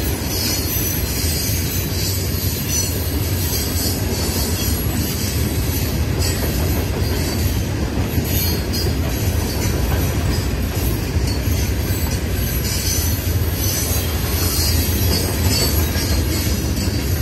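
Florida East Coast Railway freight cars rolling past at a grade crossing: a steady low rumble of steel wheels on rail, with high-pitched wheel squeal and some clicking over the rail joints.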